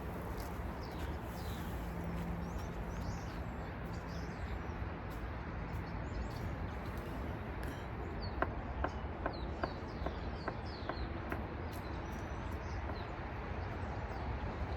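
Small birds chirping in short calls over a steady outdoor background hum, with a quick run of about eight sharp clicks a little past the middle.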